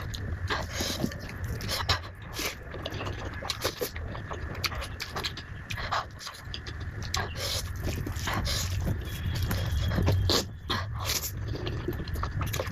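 A person eating close to the microphone: wet chewing and mouth sounds with many irregular smacks and clicks.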